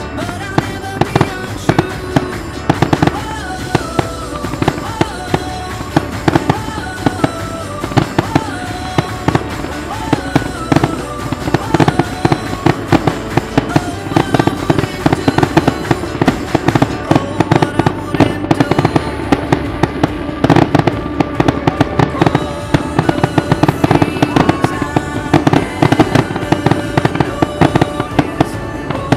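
Fireworks display going off: a dense, irregular run of bangs and crackles from bursting aerial shells, with music playing alongside throughout.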